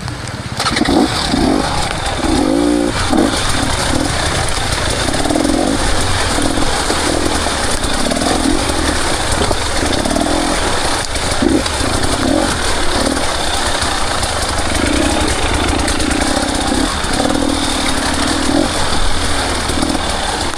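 Enduro motorcycle engine running under changing throttle, its revs rising and falling in short bursts every second or so over a steady low rumble.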